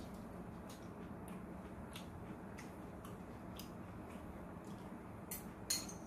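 A person chewing food with the mouth close to the microphone: faint, irregularly spaced wet mouth clicks over a low steady hum.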